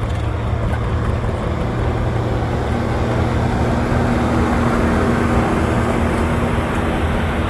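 Tractor engine running loud and steady, with a held tone that comes in about three seconds in and rises slightly in pitch near the end.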